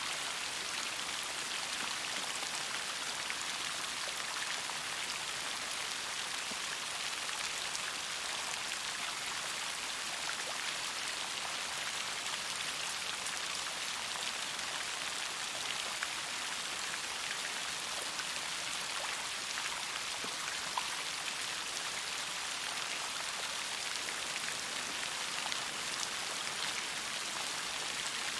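Steady rainfall, a dense even hiss of drops with many small individual drop ticks.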